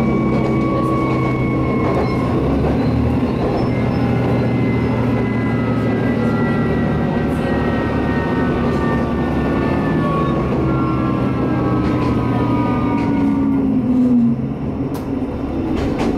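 Diesel railcar running on the line: a steady low engine drone with a higher whine that slowly falls in pitch, and a few faint clicks from the track. The sound drops a little in level near the end.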